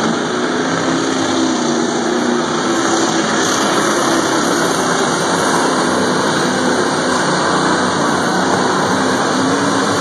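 Engine of a pulling truck or tractor running hard and steadily, a loud, dense engine noise that holds an even level throughout.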